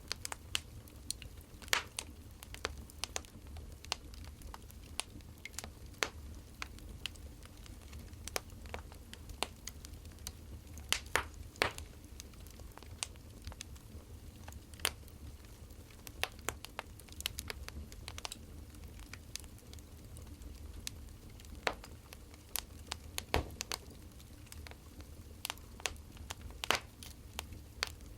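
Wood fire crackling: irregular sharp pops and snaps over a low steady rumble, with a few louder snaps.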